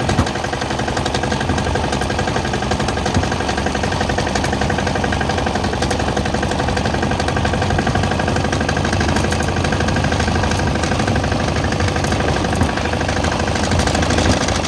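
Engine of a vehicle being driven, running steadily with a rapid, even knocking beat.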